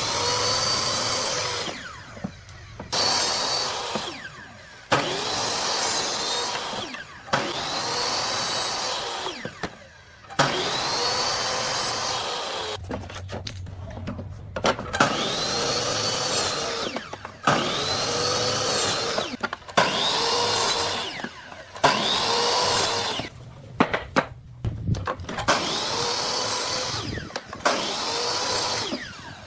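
A handheld electric power tool run in repeated bursts of one to two seconds, about a dozen times. Each burst rises in pitch as the motor spins up and falls away as it is released, often opening with a sharp click.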